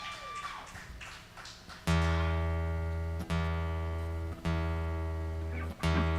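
A guitar's low string plucked and left to ring, again and again about every second and a bit, while it is tuned. Faint crowd murmur fades out before the first pluck.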